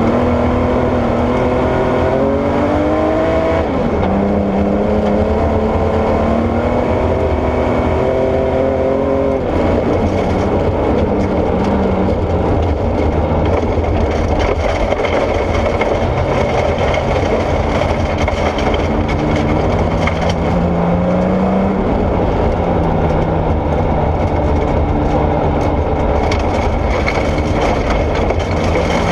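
Porsche 964 rally car's air-cooled flat-six running hard: it revs up through the gears in the first several seconds, then runs on at lower revs under steady rough noise, rising again near the end.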